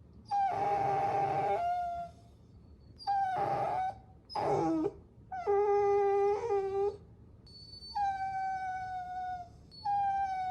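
Puppy whining: a series of about six high-pitched whines, each up to a second and a half long with short pauses between, several sliding down in pitch at the end.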